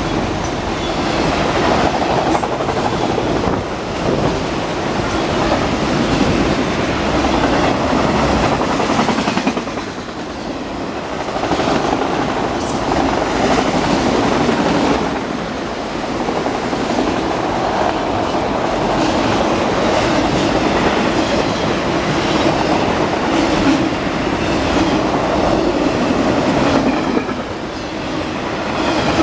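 Autorack freight cars rolling past: a steady loud rumble of steel wheels on the rails, dipping briefly in loudness a few times.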